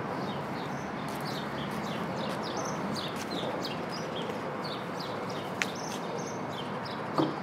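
Small birds chirping, short calls repeating two or three times a second, over a steady background hiss; one sharp click about three-quarters of the way through.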